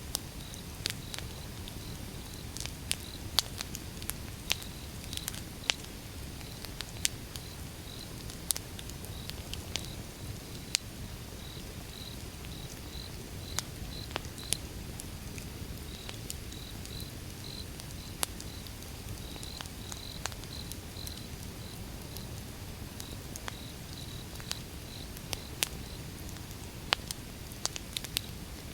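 Wood fire burning: irregular sharp crackles and pops from the logs over a low, steady rumble of the flames. A faint high chirping pulses evenly behind it.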